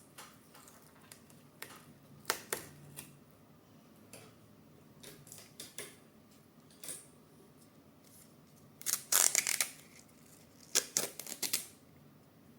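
Hands handling 3D printer parts and tools during assembly: scattered small clicks and taps, with two denser, louder clusters of clicks about nine and eleven seconds in.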